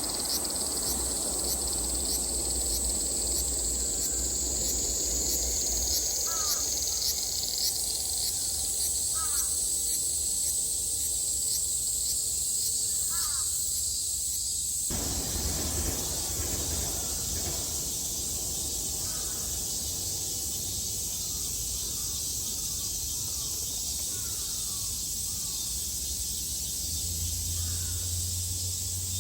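Cicadas singing in a steady, high-pitched drone, with a fast pulsing rhythm through the first several seconds. A few short calls break in over it now and then. The background changes suddenly about halfway through.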